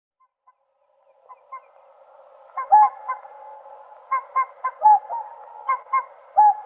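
Whooper swans calling: after about a second of silence a flock's steady background of calls starts up, with loud, short, trumpeting whoops from nearer birds breaking through about eight times, often in quick pairs.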